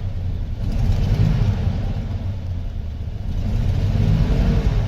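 1984 GMC C1500 pickup's carbureted engine running while warming up after a cold start. Its revs swell and fall back twice, about a second in and near the end.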